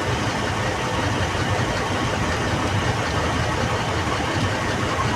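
Steady running noise of a passenger vehicle: an even engine rumble with broad travel noise over it.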